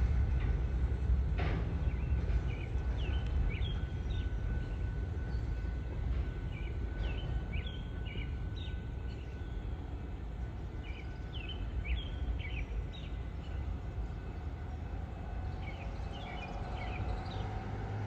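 Low rumble of a freight train that slowly fades, with birds chirping in short bursts throughout. One sharp click about a second and a half in.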